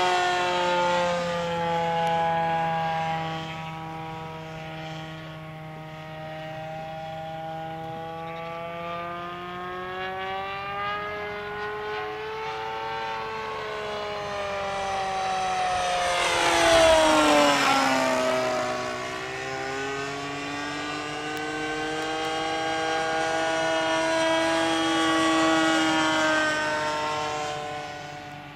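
Seagull Tucano radio-controlled model plane's engine and propeller droning in flight, fading and swelling as it circles. About 17 s in it makes a loud close pass with a sharp drop in pitch, then swells again near the end before fading.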